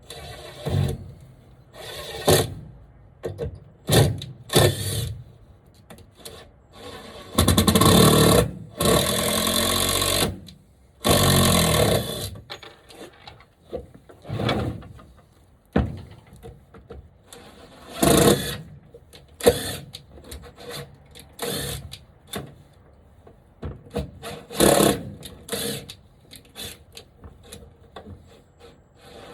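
Power drill driving screws into a wooden frame in a series of short trigger bursts, with two longer runs about eight and eleven seconds in.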